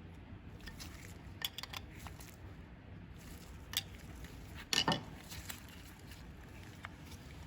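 A few light clicks and clinks of small hard parts being handled, the loudest a quick double clink about five seconds in.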